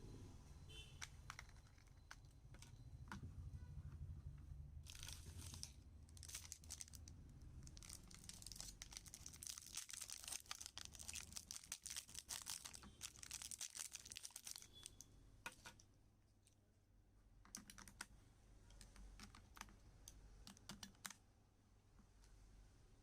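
Faint rapid clicking and rustling, densest through the middle, then a few separate clicks near the end.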